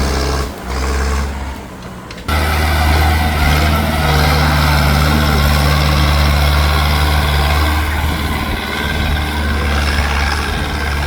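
Tractor diesel engine running steadily, loud, with a drop in level about half a second in and a sudden return to full level about two seconds in.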